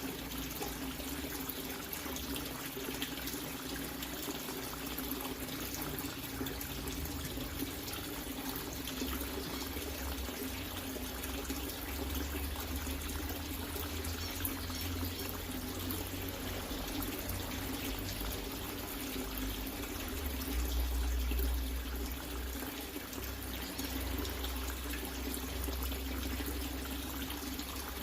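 Water running in a steady, unbroken stream, with a low rumble that swells about twenty seconds in.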